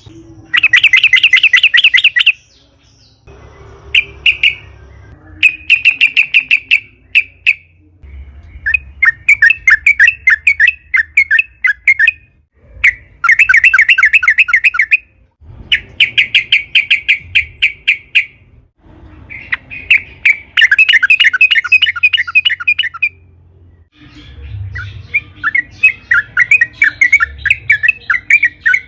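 Yellow-vented bulbul (trucukan) calling in a long series of chattering phrases, each a quick run of repeated bubbly notes lasting a second or two, with short pauses between them.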